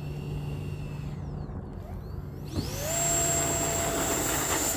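Electric ducted fan of an RC jet whining. A faint steady whine jumps up sharply about two and a half seconds in and holds at a loud, steady high pitch: the throttle pushed up for the takeoff run.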